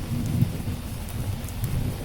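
Steady rain with a low rumble of distant thunder that swells and eases, and a few faint sharp crackles of a wood fire.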